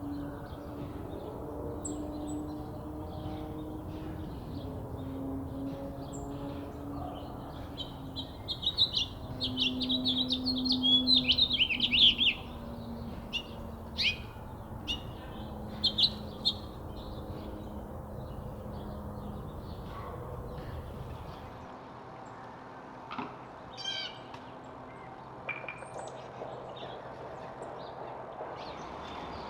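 Backyard songbirds singing and calling: a loud, rapid trilled song phrase for about four seconds near the middle, then scattered short chirps. A low drone hums underneath for the first two-thirds.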